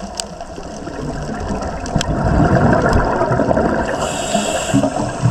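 Water rushing and bubbling, growing louder about two seconds in, with a brief hiss near the end.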